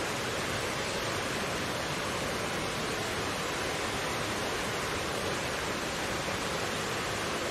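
Mountain stream rushing steadily over rocks, an even full-range water noise with no changes.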